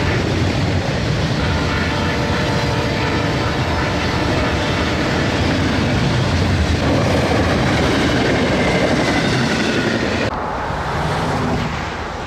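Freight train passing close by, its cars rolling steadily over the rails. The sound turns duller about ten seconds in as the higher hiss drops away.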